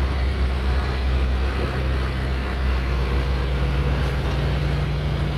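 Vehicle engine and tyre noise heard from inside a moving vehicle driving on sand: a steady low drone whose engine note rises slightly about halfway through.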